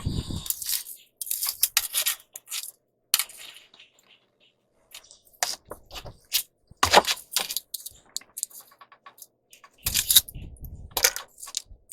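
Hand demolition work on rotten boat flooring: irregular clicks, scrapes and clattering of tools and broken pieces, with a brief lull a few seconds in and heavier knocks about seven and ten seconds in.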